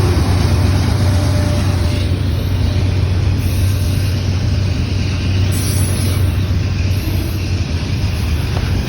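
Train rolling past, a loud, steady low rumble.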